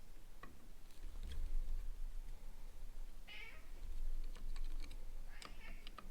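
Light clicks and taps of hand tools on metal as a carburetor's float bowl is taken off, with two short high-pitched squeals about three and five and a half seconds in.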